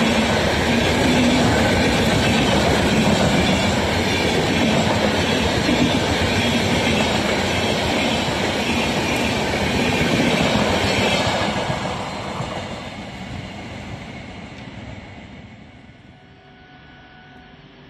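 Train passing close by: a loud, steady rush of wheels on the track that starts dying away about eleven seconds in and has faded low by about sixteen seconds.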